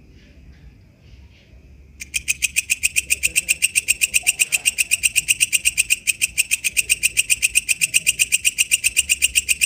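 Walang kecek katydid calling: a fast, even train of sharp ticking pulses, about seven a second, that starts abruptly about two seconds in and keeps going.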